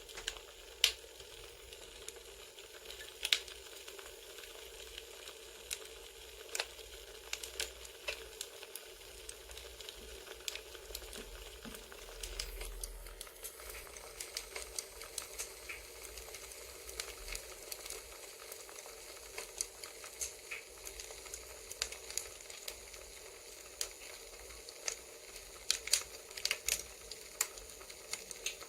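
Campfire ambience: burning wood crackling, with irregular sharp pops over a steady soft hiss.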